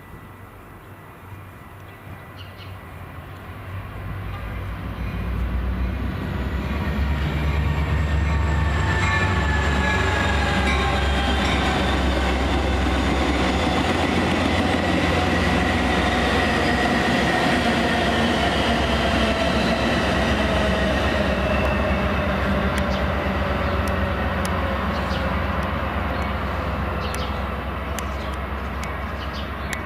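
Train passing close by: the rumble builds over the first few seconds, then holds loud and steady, with high whine tones slowly falling in pitch as it goes by.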